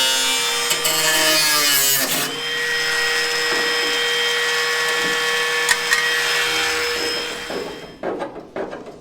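Handheld power tool cutting the car's sheet-steel sill, its motor pitch shifting under load for the first couple of seconds and then holding steady. It runs down and stops about eight seconds in, followed by a few light taps.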